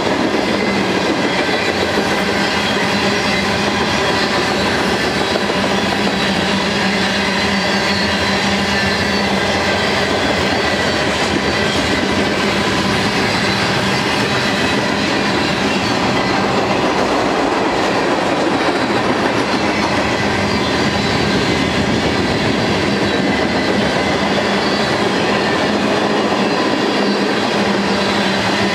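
Freight cars of a Union Pacific manifest train (covered hoppers, boxcars, tank cars) rolling past: a steady, loud noise of steel wheels running on the rails that does not let up.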